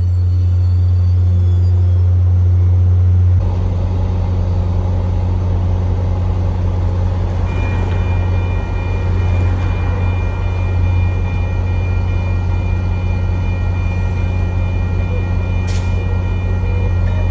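MBTA commuter rail diesel locomotive running with a heavy, steady low drone, which changes abruptly a little over three seconds in. About halfway through, a steady high whine joins in.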